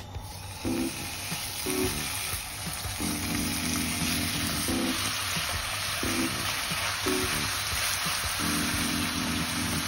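Food sizzling in a hot pan: a steady, even hiss, with background music playing over it.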